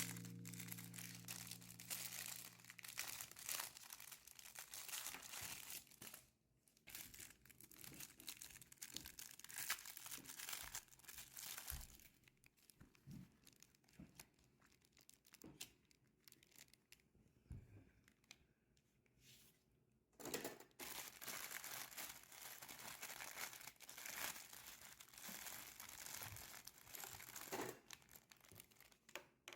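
Faint crinkling and tearing of plastic packaging, in irregular crackly bursts with a quieter stretch in the middle, as newly delivered baking tools are unwrapped.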